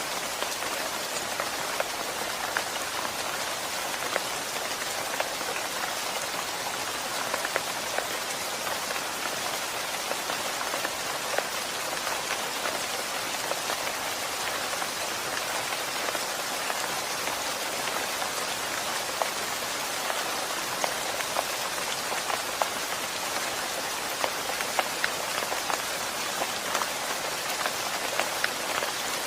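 Steady rain falling, with many separate drop impacts heard as sharp ticks over an even hiss.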